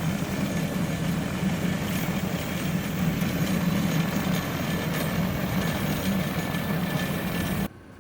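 An engine running steadily, with a strong low hum; it cuts off suddenly near the end.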